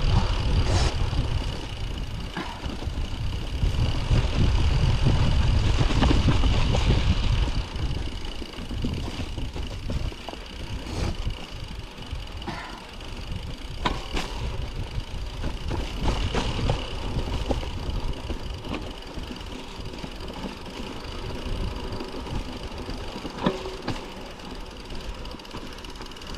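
Mountain bike riding down a snowy trail: wind rumble on the camera's microphone, heavy for about the first seven seconds, then lighter, with the bike's rattles and scattered sharp knocks over the rough ground.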